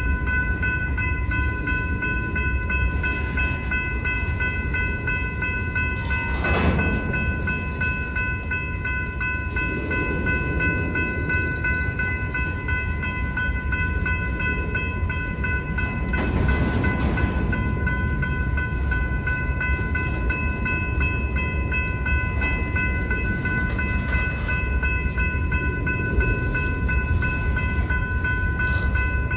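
Freight train of covered hopper cars rolling steadily past a grade crossing, wheels rumbling and clattering on the rails, with louder clanks about six and seventeen seconds in. The crossing signal's bell rings continuously over it.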